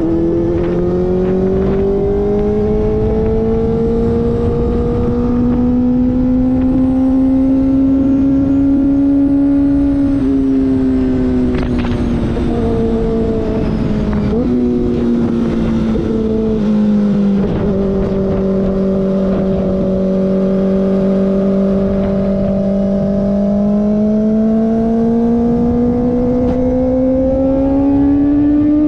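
2025 Kawasaki ZX-4RR's inline-four engine running through an SC-Project slip-on exhaust while riding. The engine note climbs slowly over the first ten seconds, drops and wavers in the middle, holds steady, then rises again near the end.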